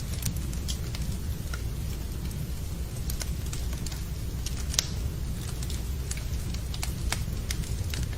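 Wood fire burning in a fireplace: a steady low rumble of flames with irregular crackles and pops, the sharpest pop a little before five seconds in.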